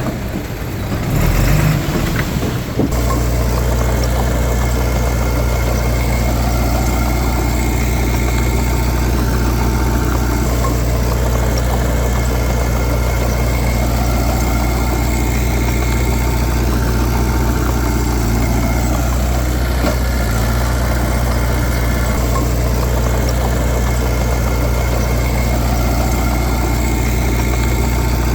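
Heavy diesel engine running steadily at constant speed. About three seconds in, a rougher, noisier passage gives way abruptly to the even engine sound.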